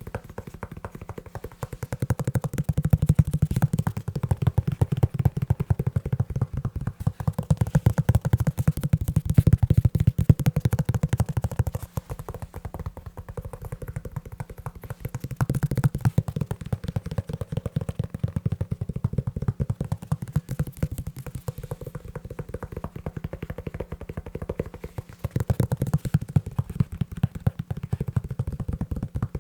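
Fast, continuous tapping on a leather shoe: a dense patter of low, dull taps. It eases off about twelve seconds in and again in the last third before picking back up.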